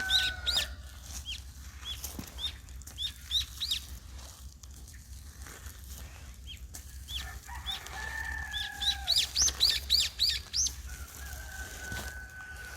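Small birds chirping in quick runs of short, high notes: at the start, around three seconds in, and most strongly in a longer run late on. A rooster crows twice in the background with a long, drawn-out call, over a low steady hum.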